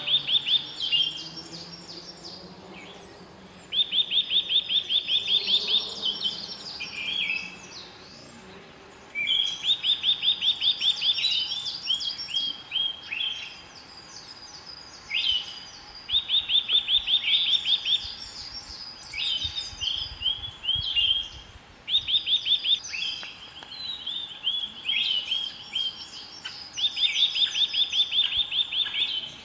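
Songbirds singing: a fast trilled song phrase of rapid repeated notes, given again every five or six seconds, with a thin high whistle and scattered chirps between phrases.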